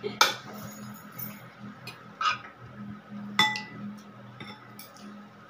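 Cutlery clinking against plates and dishes during a meal: three sharp clinks, the last with a brief ringing tone, over a steady low hum.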